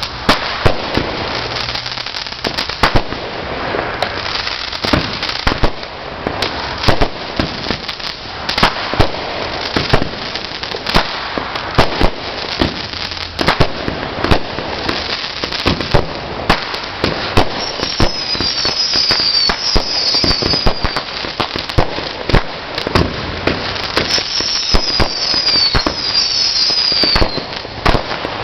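Consumer fireworks going off in a continuous string of sharp bangs over steady crackling. Twice in the second half comes a cluster of high, falling whistles.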